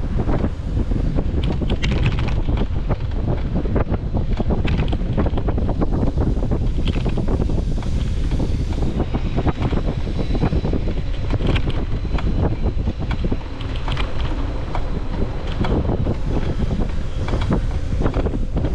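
Wind buffeting the microphone of a camera carried on a moving bicycle: a loud, steady rumble with frequent small clicks and knocks throughout.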